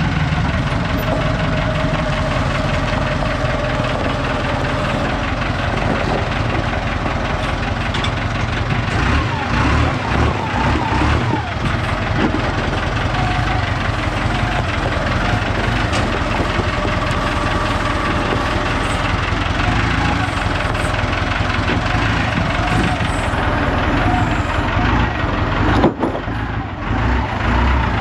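Engine of heavy lifting equipment running steadily, with a few brief knocks.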